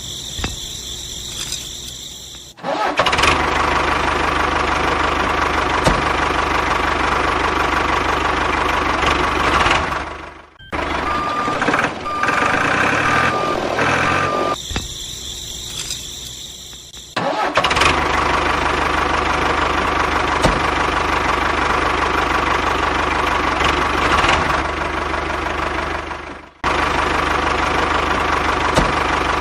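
Mini tractor's small engine running steadily in several spliced takes, each starting and stopping abruptly, with short stretches of a higher-pitched whining sound between them.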